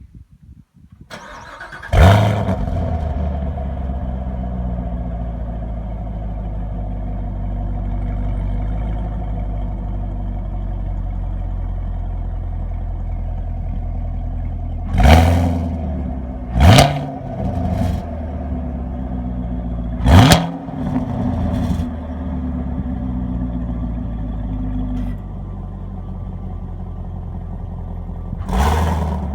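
Stock 2017 Chevrolet Camaro 2SS's V8 starting about two seconds in with a flare of revs, then idling steadily. Five short, sharp throttle blips follow in the second half, and the idle settles a little lower partway through.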